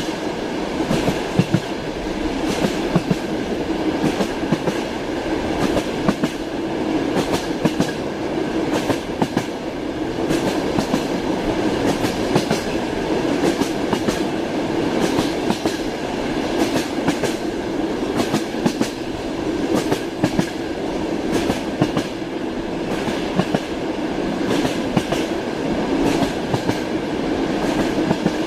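Train wheels clattering over rail joints in a steady, repeating clickety-clack, over the continuous rumble of a moving train carriage.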